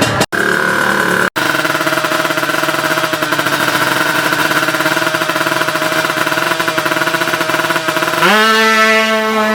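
Tuned Kawasaki Ninja two-stroke drag-bike engine held at steady high revs, with a rapid rattling exhaust pulse. About eight seconds in, the revs jump sharply and hold at a higher note.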